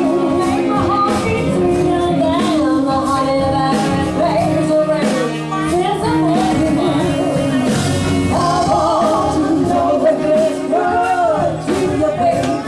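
A live band playing a rock-and-soul song with singing, drums keeping a steady beat under bass and sustained chords.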